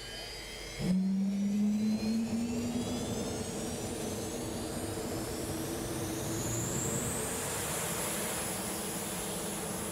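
Jet dragster's turbine engine: a rising whine, then about a second in a sudden jump to loud, steady jet engine noise with a deep tone. A high whine climbs again near the end.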